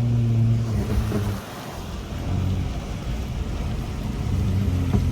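Honda Accord V6 engine heard from inside the cabin, holding a steady pitch, then falling away about a second and a half in as the throttle eases off, and building again from about two seconds in.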